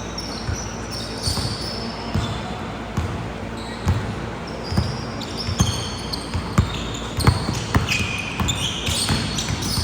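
Basketballs bouncing on a hardwood court in irregular thuds, mixed with short high squeaks.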